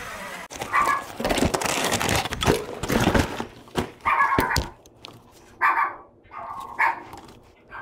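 A dog barking in four short barks spread over several seconds, with a stretch of rustling and clattering near the start.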